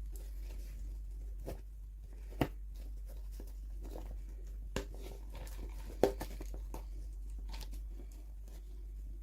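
Toy packaging handled by hand: scattered crinkles and light taps, with three sharper clicks, over a steady low hum.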